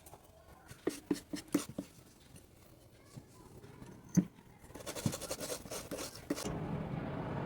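Small sharp clicks and light scraping of hand tools on a phone circuit board. Then a steady rushing noise with a low hum builds up about five seconds in and holds to the end.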